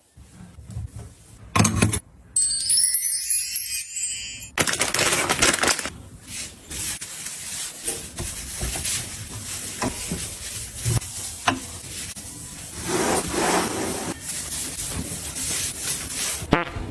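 Items being handled and set down in a kitchen: clinks, taps and rubbing, with a short burst of hiss about five seconds in and a brief bright chiming passage near the start.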